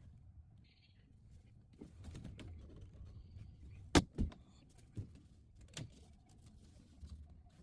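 Handling noises from hand work: a sharp knock about four seconds in, the loudest, quickly followed by a second, then a few lighter clicks and knocks over a low rumble.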